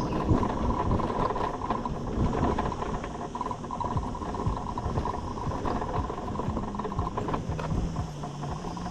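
Wind buffeting and road noise from riding an electric motorcycle, with a steady whine running underneath.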